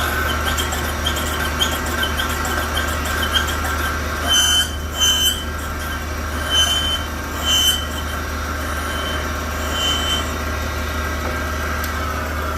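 A metalworking machine for rod reconditioning runs with a steady hum and a high whine, while metal parts on it give short, repeated squeaks. Several louder squeals come in the middle, and the whine winds down near the end.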